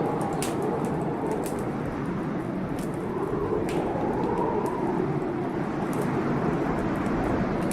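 Wood fire crackling, with sharp pops at irregular intervals, over a storm's steady rush of rain that swells and eases slowly.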